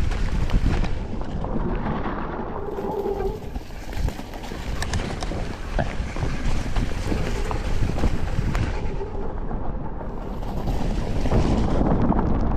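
Wind rushing over the microphone and an electric mountain bike descending a wet, muddy trail, with repeated knocks and rattles as it rolls over roots and rocks.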